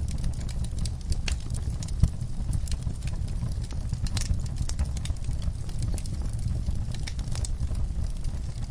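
Wood fire burning in a fireplace: a steady low rumble with scattered crackles and pops, one louder pop about two seconds in.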